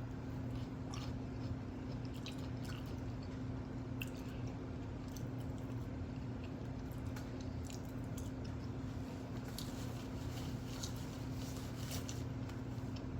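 Close-miked wet chewing and mouth sounds of someone eating takeout food, with many small irregular smacks and clicks. A steady low hum runs underneath.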